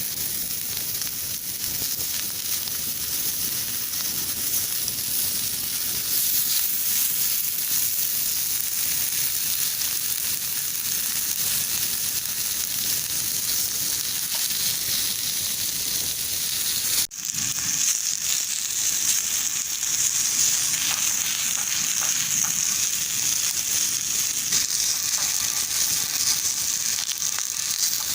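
Horumon (offal) frying on a homemade checker-plate steel griddle: a steady sizzle with fine crackling that breaks off for a moment about seventeen seconds in, then carries on.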